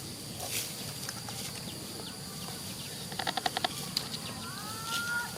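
Small animal calls: a quick run of about eight short chirps about three seconds in, then a longer rising call near the end, over a steady high-pitched insect drone.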